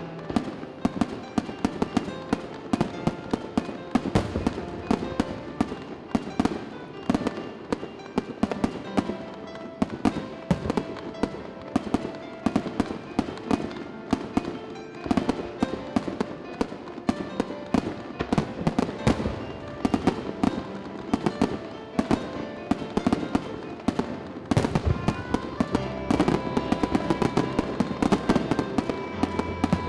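Aerial fireworks display: firework shells bursting one after another in quick, irregular sharp bangs, with music playing underneath. The bangs come thicker and louder in the last few seconds.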